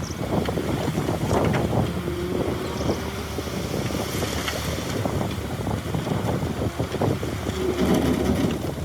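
Heavy earthmoving machinery with a diesel engine running steadily, with scattered metallic knocks and rattles and wind buffeting the microphone.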